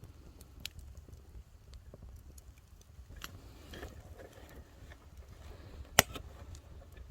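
Wood fire crackling over a low steady rumble, with a few sharp snapping pops, the loudest about six seconds in.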